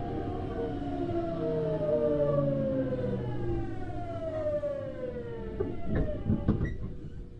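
Hitachi GTO-VVVF inverter and traction motors of a Tokyu Series 9000 electric train whining with a steadily falling pitch and stepped lower tones as the train slows under braking. The whine dies out about six seconds in, followed by a few knocks.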